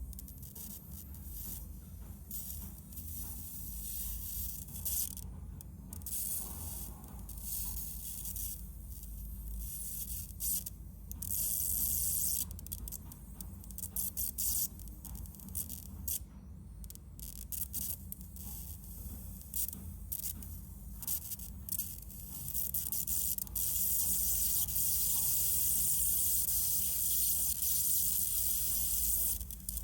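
Hissing and crackling of the high-voltage static discharge from a negative ion generator's emitter, over the low steady hum of its fan. The hiss keeps breaking off and starting again, then runs steadily and a little louder in the last few seconds.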